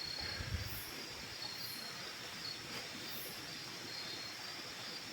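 Insects chirping: a steady high trill with a sharper, very high chirp repeating about once a second. A low rumble and a short thump about half a second in.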